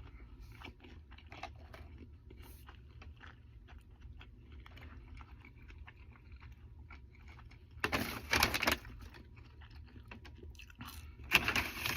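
A person chewing a mouthful of burger, with soft, irregular mouth clicks. Louder bursts of noise come about eight seconds in and again near the end.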